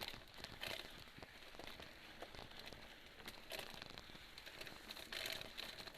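Mountain bike rolling over a dirt trail: irregular crackling and rattling from the tyres on loose ground and the frame and chain, with a few brief louder rough patches.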